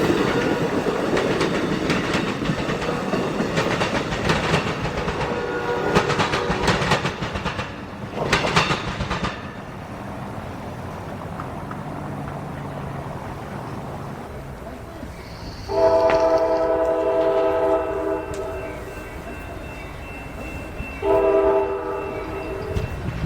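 A train passing with its cars clattering over the rail joints, fading after about nine seconds; then a locomotive horn sounds a chord in two blasts, about two seconds and then one and a half seconds long, a few seconds apart.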